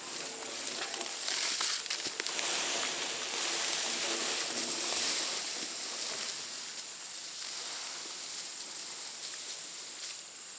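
A freshly cut 12-foot log being dragged by rope across dry leaf litter and twigs, a continuous rustling and crackling that swells in the middle and eases off near the end.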